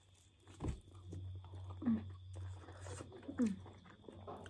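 Biting and chewing on chicken drumsticks, with a sharp bite or knock less than a second in and scattered small wet clicks. Two short falling hums of the voice come near 2 and 3.5 seconds, over a steady low electrical hum.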